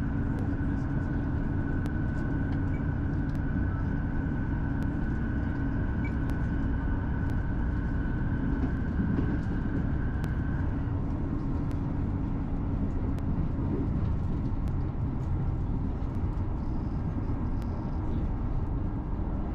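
Onboard running noise of a Class 158 diesel multiple unit: a steady drone from the underfloor diesel engine and wheels on rail, with faint clicks. A steady higher whine drops out about halfway through.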